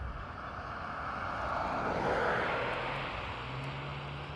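Passing engine noise, a rush that swells to a peak about two seconds in and then fades, with a low steady hum under it in the second half.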